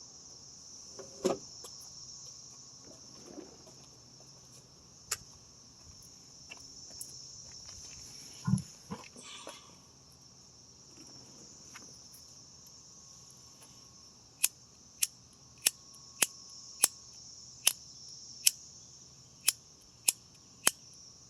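Crickets chirring steadily, with a few scattered knocks, then a run of about ten sharp clicks under a second apart over the last seven seconds.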